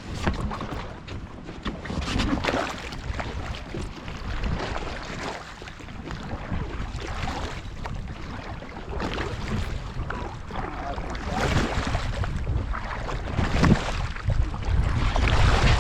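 Wind buffeting the microphone in a low rumble, with water splashing and sloshing from kayak-paddle strokes; the wind grows louder near the end.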